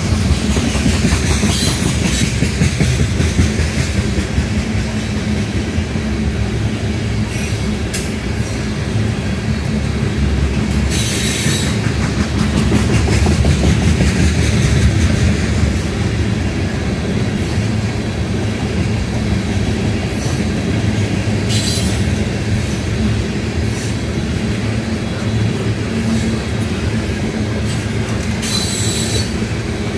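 Steel wheels of a long string of railroad tank cars rolling past close by: a steady rumble with rhythmic clickety-clack over the rail joints. A few brief high-pitched wheel squeals come and go, about two seconds in and again around eleven, twenty-one and twenty-nine seconds.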